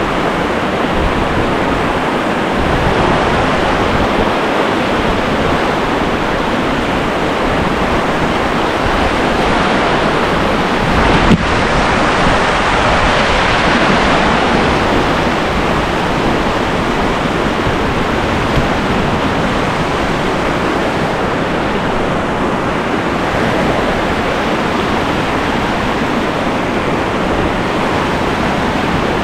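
Whitewater rapid rushing steadily and loudly, with one brief knock about eleven seconds in.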